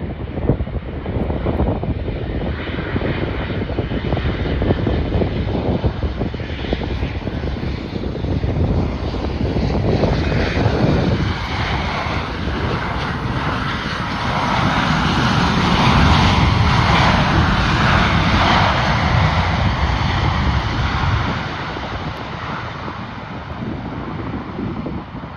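Airliner's engines passing close by, the noise swelling to a peak about two-thirds of the way through and then falling away, with wind buffeting the microphone throughout.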